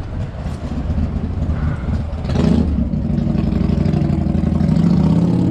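A car engine running with a steady low rumble, growing louder about two seconds in and holding there.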